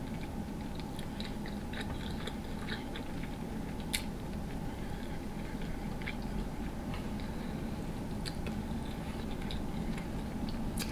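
Close-miked chewing of a mouthful of sauce-drenched potato, king crab and sausage: soft, wet mouth sounds with scattered small clicks, one sharper click about four seconds in.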